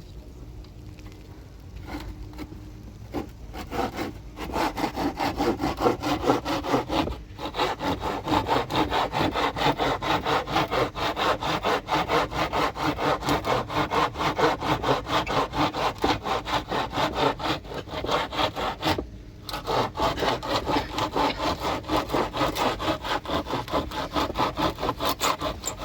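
Hand saw cutting through wood with quick, steady back-and-forth strokes. The sawing pauses briefly past the middle, then starts again.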